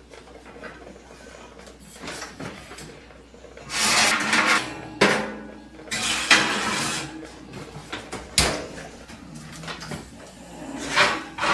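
Kitchen clatter: dishes and utensils being handled, with several sharp knocks and short noisy stretches of rattling.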